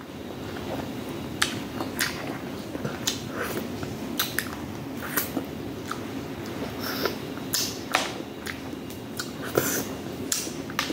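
Close-up eating of shellfish by hand: steady chewing with many sharp, wet mouth smacks and clicks.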